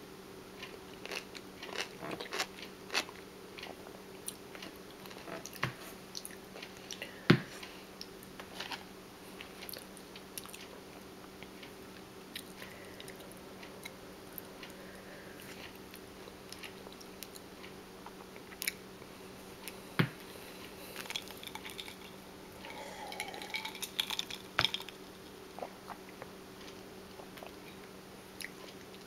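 Close-miked chewing of crunchy raw food: a run of crisp crunches and mouth sounds, with two loud sharp bites, one about a quarter of the way in and one about two-thirds in. A short pitched squeak comes in about three-quarters of the way through.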